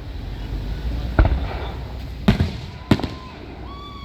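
Aerial fireworks bursting: three sharp booms, one about a second in and two more close together past the two-second mark, over a low rumble.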